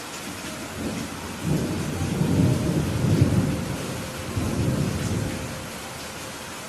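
Steady rain with a roll of thunder that builds about a second in, rumbles loudest a couple of seconds in, swells once more and dies away near the end.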